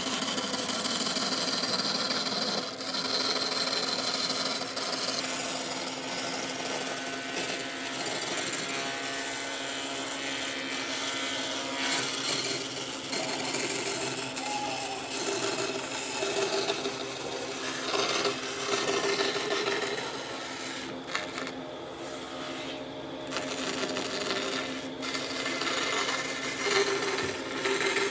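Power tool working wood, with a steady motor whine under scraping and a metallic clinking, easing off briefly about three-quarters of the way through.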